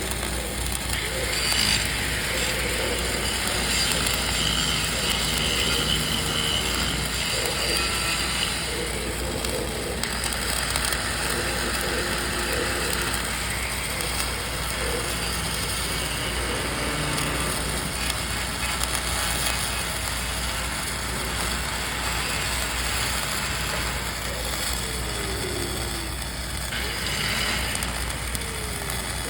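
Dual-shield flux-cored arc welding: the arc crackles and sizzles steadily as the wire feeds into a vertical joint.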